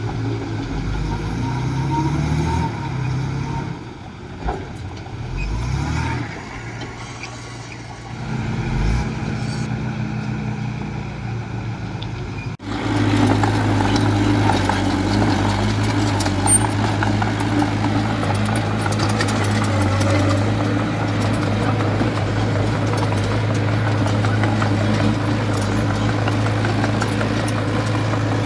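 Diesel engine of earthmoving machinery working: its pitch rises and falls as it is revved under load for the first dozen seconds. After an abrupt break it runs steadily and louder for the rest.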